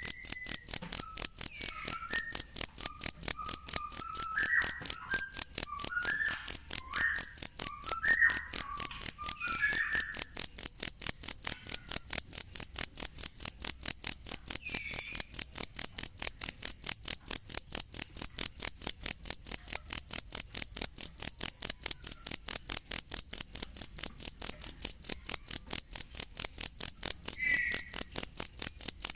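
A cricket chirping steadily: a high, even trill of pulses repeating about four times a second without a break.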